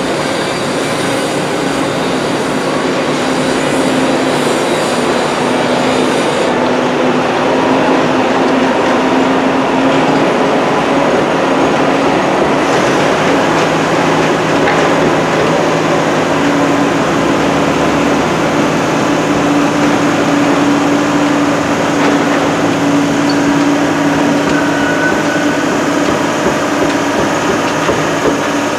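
Continuous vehicle or machinery engine noise, a steady rumble with a droning hum that shifts slightly in pitch a few times.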